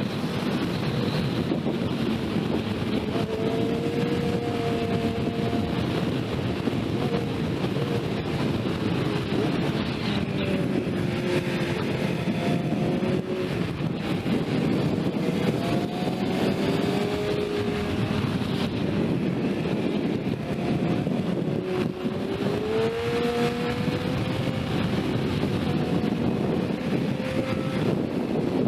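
Sport motorcycle ridden at speed: steady wind rush over the engine, whose pitch rises and falls repeatedly as it accelerates and eases off.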